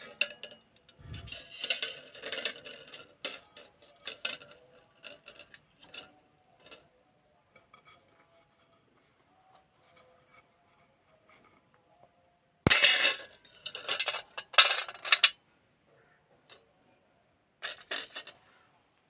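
Fired clay (earthenware) vessel being crushed: crunching and crackling of brittle clay with gritty scraping. A loud bout of crunches starts with a sharp crack about two-thirds through, after a quieter stretch, and a shorter crunch comes near the end.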